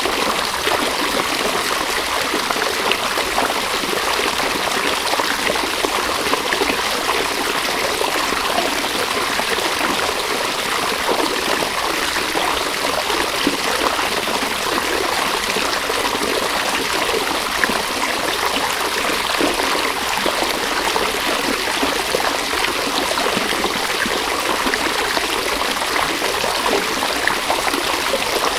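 River water running over rocks, a steady rush with fine splashing and gurgling detail.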